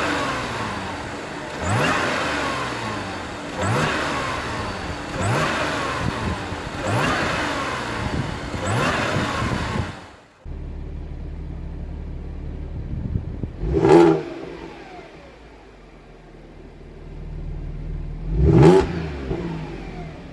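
Audi S5 Sportback's supercharged 3.0 TFSI V6 exhaust being revved: a run of quick throttle blips about every two seconds, then a cut to a steady idle broken by two sharp revs, one about 14 seconds in and one near the end.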